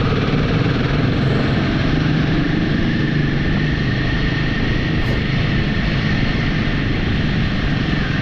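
Royal Enfield motorcycle running steadily on the move, a constant engine and road din that holds an even level throughout.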